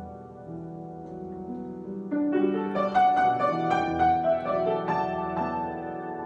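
Improvised piano or keyboard playing: soft held notes, then a louder run of struck notes about two seconds in that settles back near the end.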